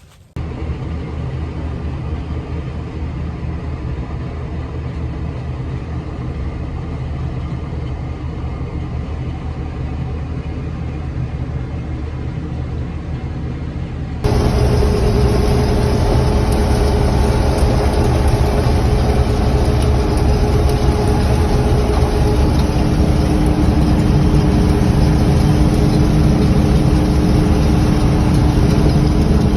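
Farm machinery engine running steadily, a low, even hum. About halfway through, it cuts abruptly to a louder engine sound with steady mid-pitched whine tones over the low hum.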